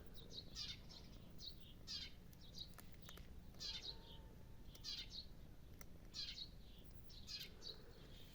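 Faint bird chirping: short, high, downward-sweeping calls repeated roughly once a second, over a low steady background hum.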